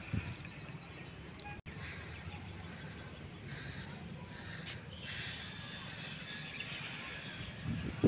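Birds chirping and calling over a low, steady background rumble of open-air ambience.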